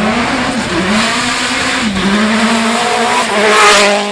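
Rally car engine running at high revs on a special stage. The pitch dips briefly about halfway through, then the car grows loudest, with a rush of tyre noise, as it passes closest near the end.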